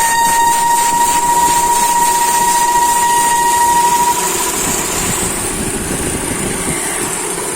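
Chevrolet Sonic 1.6 16V engine running, with a steady high-pitched tone over it that stops about four seconds in.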